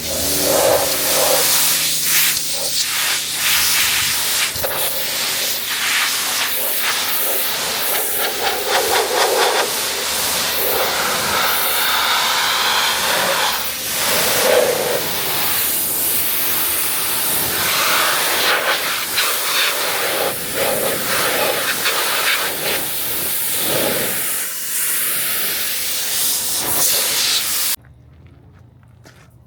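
Pressure washer jet spraying a car: a loud, steady hiss whose tone keeps shifting as the spray moves over the bodywork. The spray cuts off suddenly near the end.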